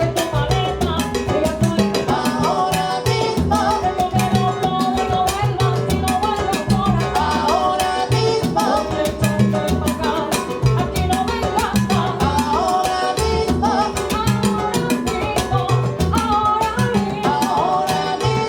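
Salsa band playing live: piano, bass, timbales, congas and trombones, with a steady percussion rhythm under the melody and some singing.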